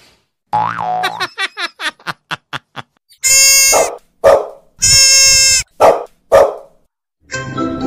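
Baby goat bleating in two long, loud calls, with a dog's short barks between and after them. A run of quick clicks comes before the calls.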